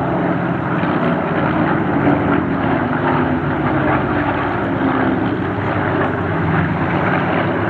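Spitfire piston engines running steadily as the aircraft fly a display pass, a continuous engine note with a slowly wavering pitch.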